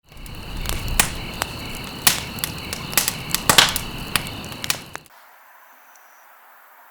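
Campfire burning, with sharp irregular crackles and pops over a low rumble and a steady high whine. About five seconds in it cuts off suddenly to a faint hiss.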